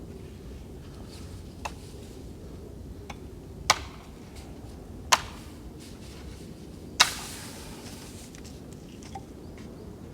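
A few sharp knocks or cracks over a steady low rumble. Three loud ones come about a second and a half to two seconds apart, the last and loudest about seven seconds in with a short hiss after it, and fainter ticks fall between them.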